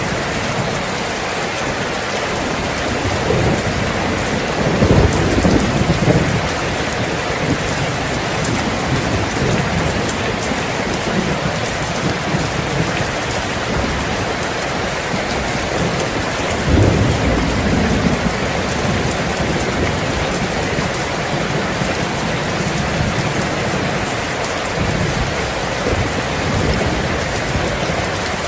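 Steady heavy rain falling, with low rolls of thunder a few seconds in, again a little past halfway, and more faintly near the end.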